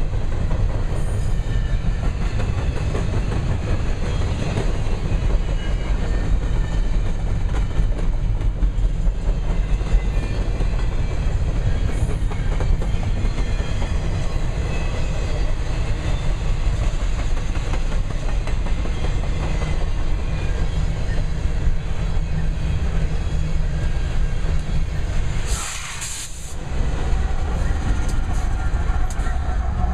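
Double-stack intermodal container cars rolling past, a steady low rumble of steel wheels with rhythmic clickety-clack over the rail joints. Near the end the rumble briefly drops and a short high hiss comes through.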